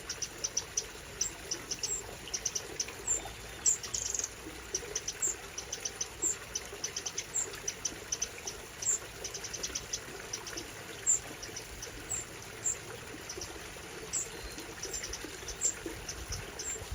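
Eurasian wrens calling: quick runs of short, high ticking notes, with a higher single chip repeated about once a second, over a faint steady hiss.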